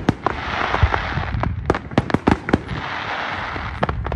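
Aerial fireworks display: a rapid, irregular run of sharp bangs, about a dozen in four seconds, as shells launch and burst, over a continuous hiss.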